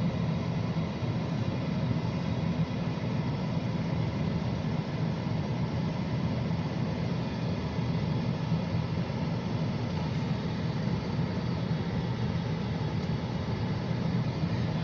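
Alco diesel locomotive's engine running at a steady, low drone, with no change in pitch or level.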